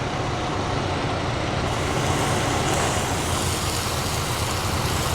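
Steady low rumble of an idling truck engine heard from inside the cab, with an even hiss over it.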